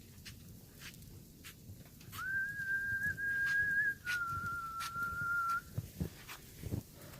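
A person whistling two long, steady notes, the second slightly lower, starting about two seconds in. Faint scattered ticks run underneath.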